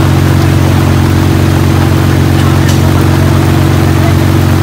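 Off-road 4x4's engine running close by at a steady speed, with an even pitch that does not change, over a steady hiss of heavy rain.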